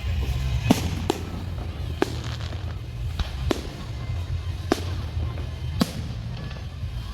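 Fireworks going off: about six sharp bangs spaced roughly a second apart, over a steady low rumble.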